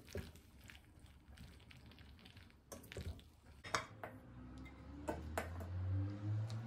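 Kitchen clatter: dishes and cutlery clinking and knocking, with a low hum that rises and grows louder in the second half.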